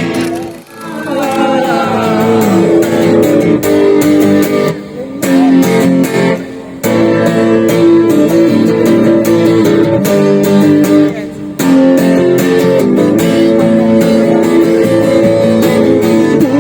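Guitar strummed in a steady rhythm: an instrumental passage of a song, without singing.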